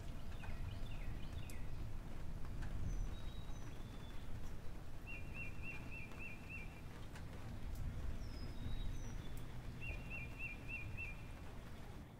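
Birds chirping: two runs of about five quick repeated chirps and some short whistled calls, over a low steady rumble.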